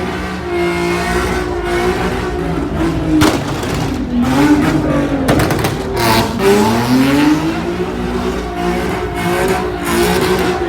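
Muscle-car V8 engine revving hard, its pitch dropping about four seconds in and climbing again from six to seven seconds, with a few sharp cracks in between.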